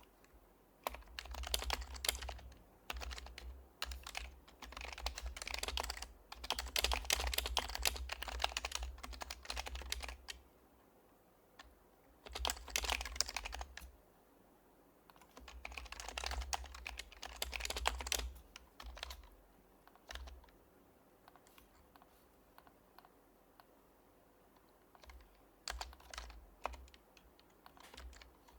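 Typing on an HHKB Professional HYBRID Type-S keyboard with silenced Topre switches. It comes in fast runs of keystrokes separated by short pauses, then thins to a few scattered keystrokes after a quiet stretch near the end.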